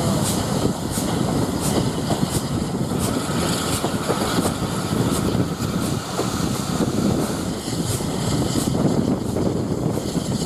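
A vintage corridor carriage running at speed on a steam-hauled heritage train, heard at an open window: a steady rumble of wheels on the track, with air rushing past and faint regular ticks.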